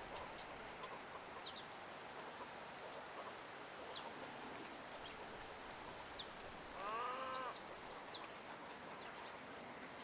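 Pond-side ambience with scattered brief high chirps from small birds, and one louder call from a larger bird, pitched and under a second long, about seven seconds in.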